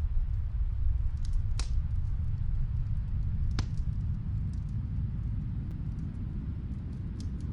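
Snowstorm wind blowing as a steady low rumble, with a few sharp crackles from a fireplace in another room, the loudest about one and a half and three and a half seconds in.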